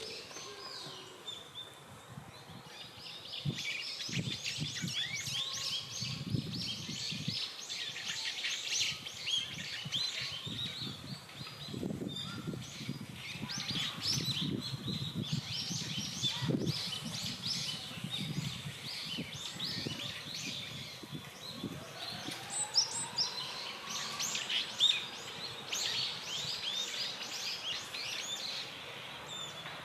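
Wild birds chirping and calling in a busy chorus of short, high notes. Low thumps and rumbles come and go through the first two thirds, and a single slow rising tone is heard about two thirds of the way in.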